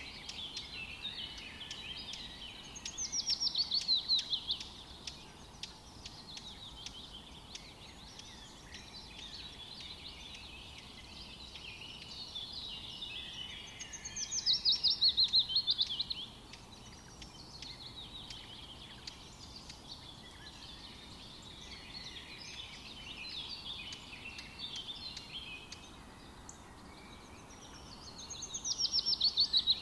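Wild birds singing: one bird repeats a loud, fast trill that falls in pitch, about two seconds long, three times roughly twelve seconds apart, over steady chirping from other birds.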